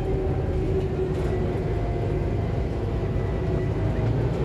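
Scania K280UB city bus's five-cylinder diesel engine and drivetrain heard from inside the cabin while it drives: a steady low drone with a faint whine over it.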